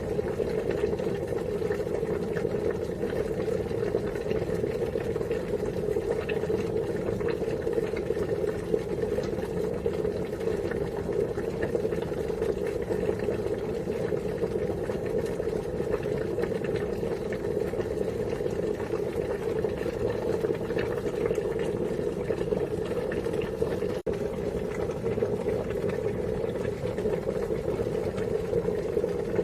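Water boiling at a steady rolling boil, a continuous bubbling and burbling with small pops, unchanging throughout.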